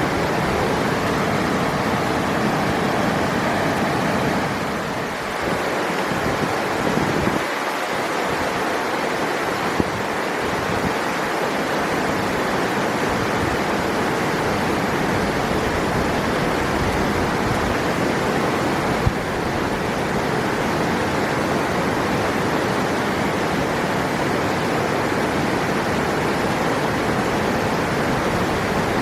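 River water rushing steadily, with a brief slight dip in level about five seconds in.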